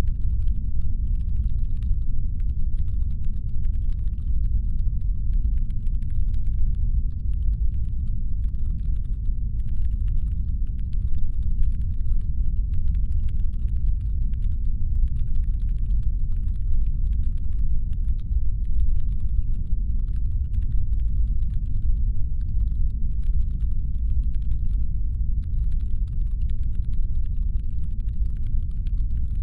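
Deep brown-noise rumble, steady and low, standing in for the hum of a spaceship's engines. Above it runs a much fainter layer of rapid, irregular clicking.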